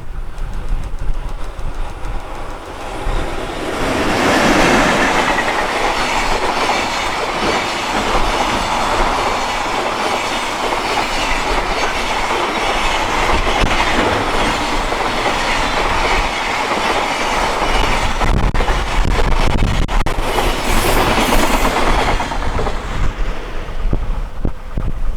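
Container freight train hauled by an EH500 electric locomotive passing by, its wheels clicking over the rail joints. The pass builds about three seconds in, holds steady and fades out near the end, with low wind rumble on the microphone before and after it.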